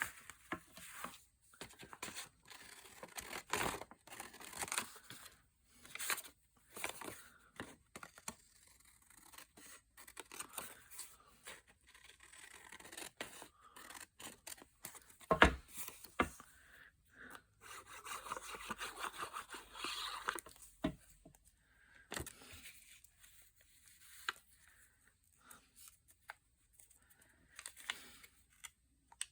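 Paper being handled at a craft table: sheets rustling, scraping and tearing, with scattered sharp taps. The loudest tap comes about halfway through, followed by a longer stretch of rustling.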